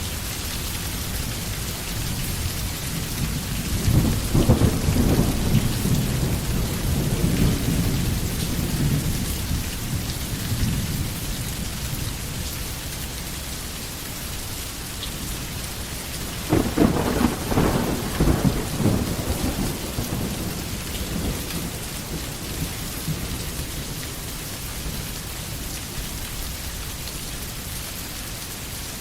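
Steady rain with two rolls of thunder, the first about four seconds in and the second near the middle, each rumbling low and dying away over several seconds.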